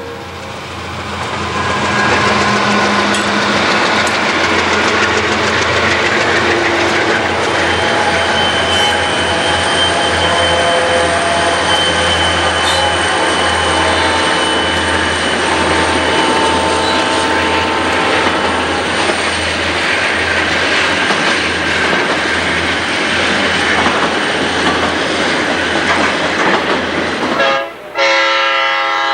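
A train passing close by at speed: steady rumble and rattle of wheels on the rails with faint wheel squeal. Near the end the sound breaks off briefly and an air horn starts blowing.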